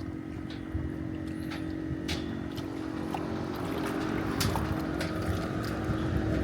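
Steady engine hum over a low wind-like rumble, with a few faint clicks and knocks.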